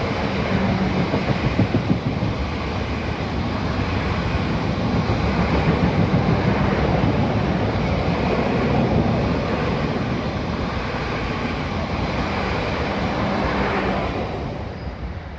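A train running past at speed, a steady rumble of wheels on rail with a low hum. It fades near the end and then cuts off suddenly.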